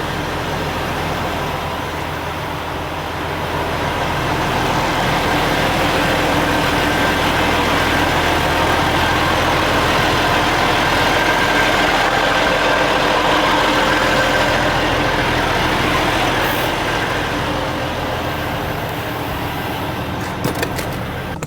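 Semi-truck diesel engine running under load, swelling about four seconds in and easing back near the end, as the tractor moves against the trailer with its brakes set to slide the tandem axles.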